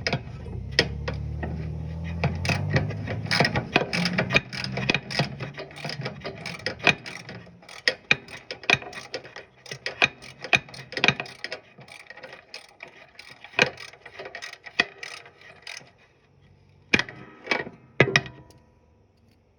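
Hand socket ratchet clicking in quick runs as engine mounting bolts are tightened down, the clicks thinning out after about twelve seconds, with two short bursts near the end.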